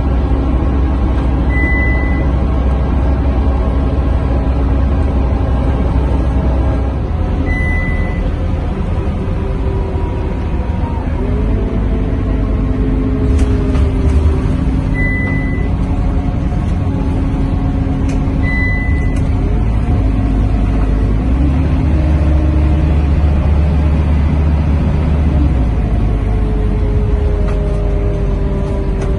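Scania K230UB bus with its five-cylinder diesel, heard from inside the cabin while under way. The engine note rises as the bus accelerates, about a third of the way in and again near the end. Four short, high electronic beeps sound during the first two-thirds.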